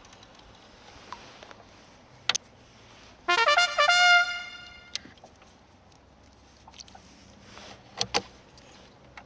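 A short trumpet-like fanfare: a few quick rising notes ending on a held note, about three seconds in. A few sharp clicks and taps are scattered around it.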